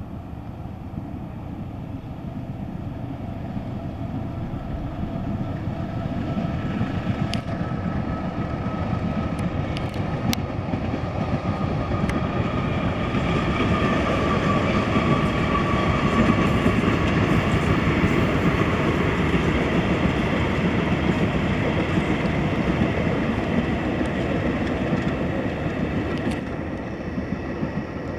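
A diesel-electric locomotive hauling passenger coaches approaches and passes: engine and wheels on the rails grow steadily louder and are loudest a little past the middle. A few sharp clicks come about a third of the way in.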